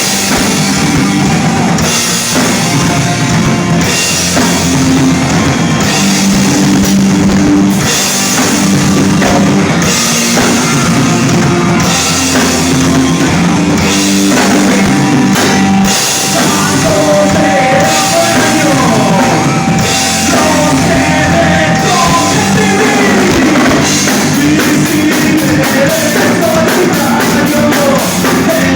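Live rock band playing: drum kit, bass and electric guitars. About halfway through, a long held note gives way to a wavering melody line, likely a lead guitar or voice.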